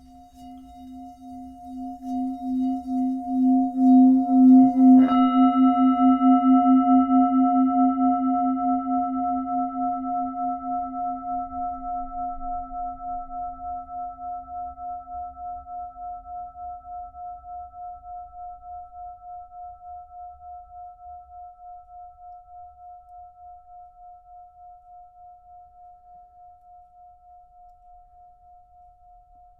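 Singing bowl humming with a deep and a middle tone that swell over the first four seconds. It is struck once about five seconds in, then rings on with a slow, even pulsing waver, fading gradually.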